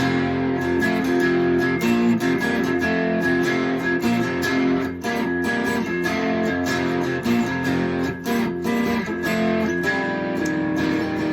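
Three-string cigar box guitar being played, strummed and picked in a run of changing notes and chords.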